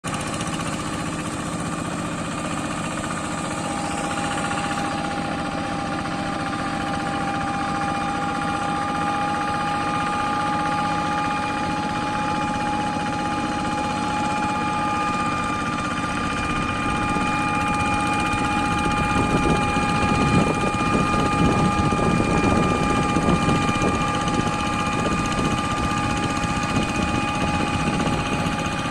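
Kubota tractor engine running steadily while plowing through mud, with a steady high whine over the engine note. The engine sound grows louder and rougher for a few seconds past the middle, then settles again.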